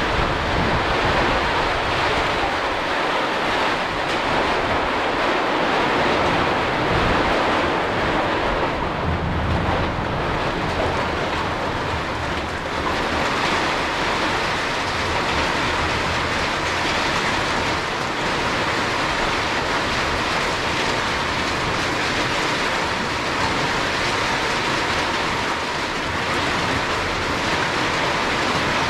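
Rain falling steadily with wind, a dense, even hiss, with a faint steady tone underneath.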